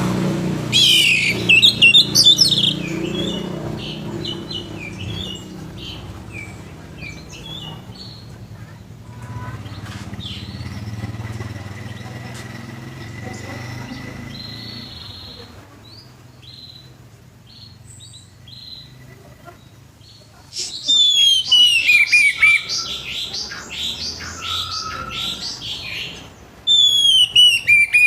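Orange-headed thrush singing in loud full song: three bursts of fast, varied phrases with whistles sliding down in pitch, near the start, past two-thirds through and at the end, with softer scattered chirps between.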